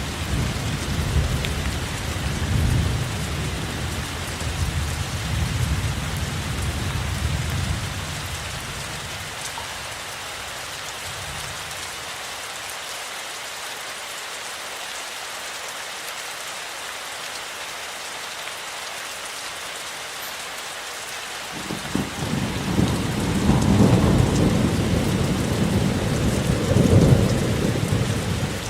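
Steady rain hissing throughout, with low thunder rumbling for the first several seconds and dying away. A new roll of thunder starts about two-thirds of the way in and swells twice before the end.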